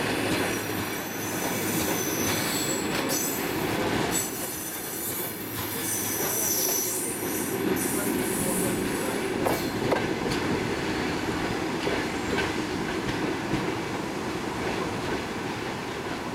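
Passenger coaches rolling past on the rails as a departing train pulls out of the station, with thin high-pitched wheel squeal coming and going and a few clicks of wheels over rail joints.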